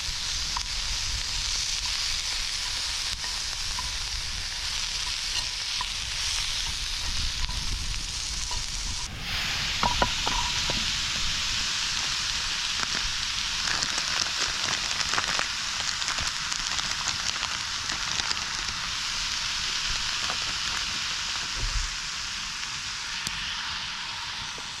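Food sizzling and frying in a pan over a campfire, a steady hiss with scattered crackles and clicks. It breaks off abruptly about nine seconds in and picks straight up again.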